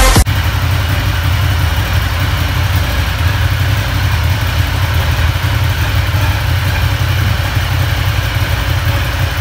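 Ducati Diavel's L-twin engine idling steadily in neutral.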